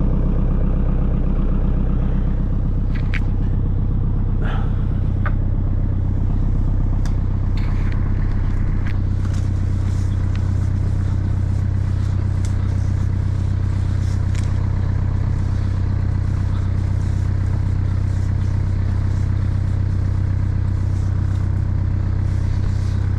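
An engine running steadily with a low, even hum, with a few light clicks and knocks over it.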